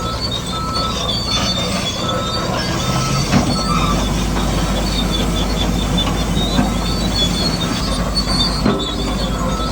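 Radio-controlled construction models running: small electric motors whine in short spurts over a steady grinding and rattling of gears and tracks. A deeper steady hum joins about three and a half seconds in.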